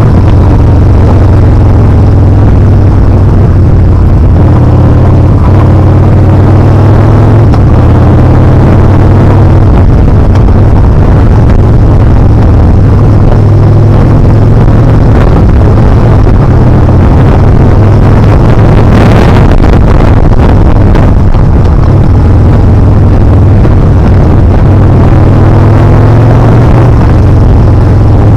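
Yamaha Bolt R-Spec's air-cooled V-twin engine running under way, its pitch rising and falling with the throttle, under wind rush on the camera microphone. There is a brief burst of noise about two-thirds of the way through.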